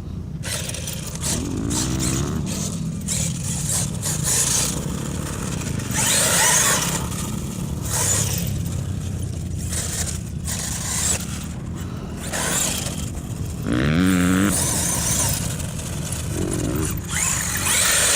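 HPI Savage Flux brushless electric RC monster truck driving hard. The motor whine rises in quick sweeps, twice clearly. Bursts of hiss come from the tyres spinning and throwing dirt.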